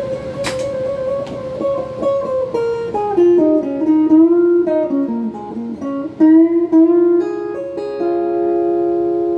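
Overdriven electric guitar from a Donner 72 Thin-style semi-hollow body played through a phaser and a Klon-style overdrive into a Peavey Backstage Plus amp. It plays a single-note lead line: a held note with vibrato, then notes stepping down with bends, settling on a long sustained note near the end.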